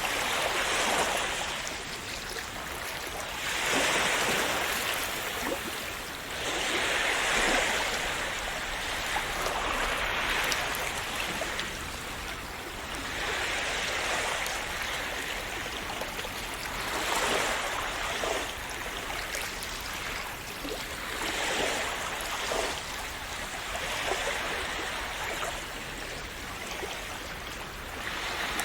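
Calm sea waves washing in and splashing, each wave swelling up and fading away about every three to four seconds over a constant hiss of moving water.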